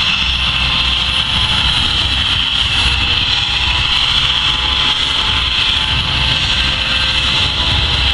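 Aircraft engine noise at an air show: a steady, loud roar with a strong high hiss over a low rumble, unchanging throughout.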